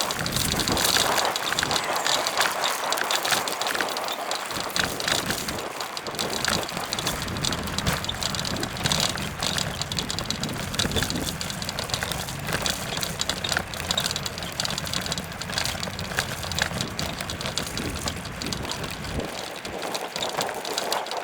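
Bicycle ride noise: tyres rolling over the path with frequent small rattles and clicks from the bike, and wind buffeting the microphone.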